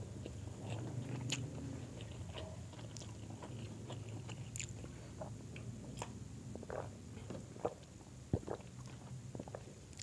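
Close-miked chewing of grilled chicken and rice, with scattered small wet mouth clicks and lip smacks and a couple of sharper clicks near the end.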